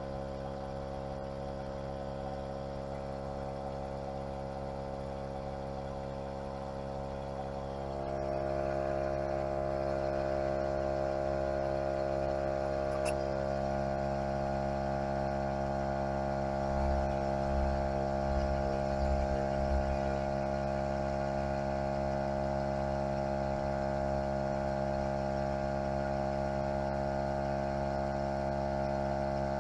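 Topline 12-volt portable tyre inflator running steadily as it pumps up a car tyre, an even motor-and-pump hum that grows louder about eight seconds in. A single short click comes about thirteen seconds in.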